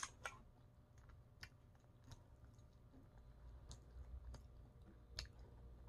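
Faint, scattered mouth clicks and smacks of someone chewing a chicken wing, a handful of irregular ticks over an otherwise near-silent room.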